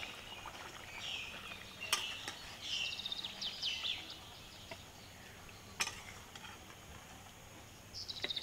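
Small birds chirping in quick repeated calls, with two sharp clinks of a metal spoon as curry is scooped from a steel pan onto a plate.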